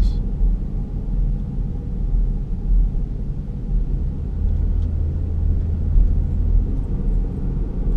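2011 Ford Flex V6 coasting off the throttle at about 20 mph, heard from inside the cabin: a steady low rumble from the road and running gear, with a deeper hum that grows stronger a couple of seconds in and fades near the end. This is the front-end noise the owner is chasing, still there after both front hubs and wheel bearings and the tyres were replaced.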